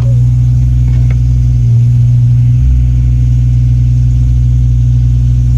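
Kubota U55-4 mini excavator's diesel engine running steadily with a loud, even low hum.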